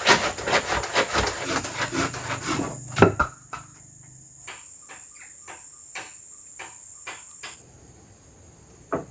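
Wood being sawn by hand in quick, even strokes that stop after a few seconds. A loud knock follows, then a few lighter knocks of wood. A steady high-pitched insect drone runs underneath.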